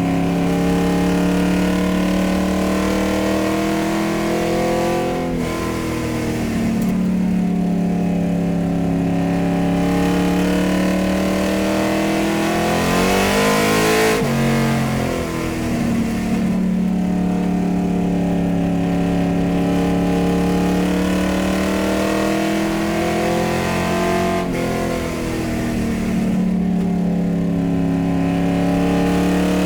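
Car engine running, its pitch holding steady and then dipping and climbing back again three times. The middle dip is the deepest and comes with a burst of hiss.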